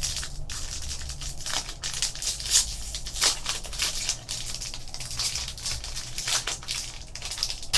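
Crinkling and rustling of a foil trading-card pack wrapper being handled and opened, with cards shuffled between hands in irregular bursts.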